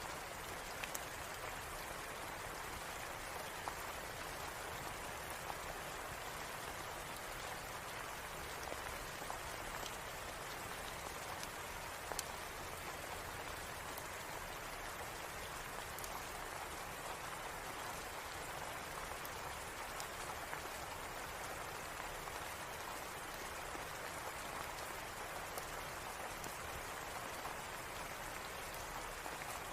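Steady rain falling, an even hiss with scattered small sharp ticks; one tick about twelve seconds in is louder than the rest.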